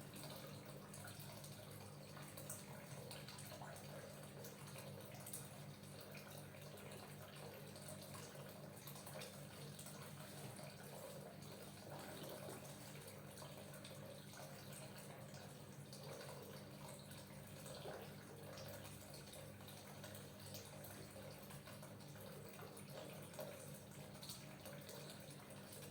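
Faint, wet sounds of oiled hands kneading the skin and muscles of a neck, over a steady low hum.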